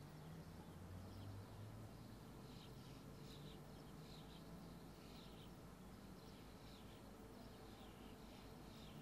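Near silence: faint outdoor background with soft, high bird chirps repeating about once a second from a couple of seconds in, over a low hum.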